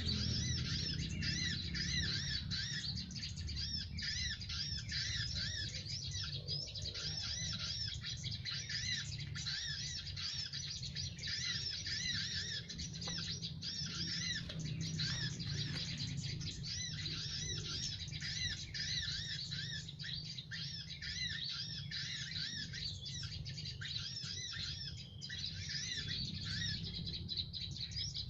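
Small songbirds chirping rapidly and without pause, many short arched chirps overlapping, over a steady low hum.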